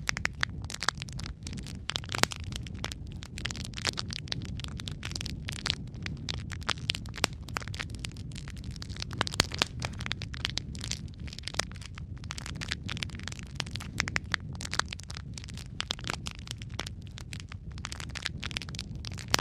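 Wood fire burning in a fireplace: logs crackling with frequent sharp pops and snaps over a steady low rumble of flame.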